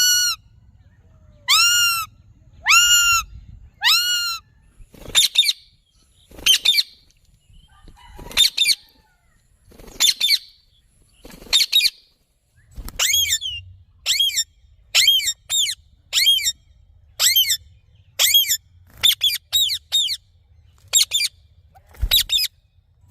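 Indian ringneck parakeet giving a long series of short, high-pitched calls, about one a second at first and coming faster in the second half.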